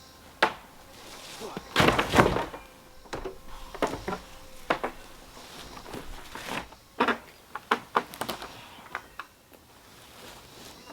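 Irregular wooden knocks and thuds, the loudest a cluster about two seconds in, from a wall frame of dry, dead cedar logs being shifted and set down by hand.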